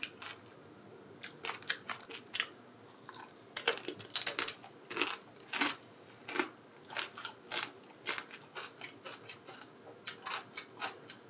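A person chewing a crisp, hard baked dumpling-wrapper cup topped with avocado guacamole: irregular crunches, loudest in a cluster about four to six seconds in.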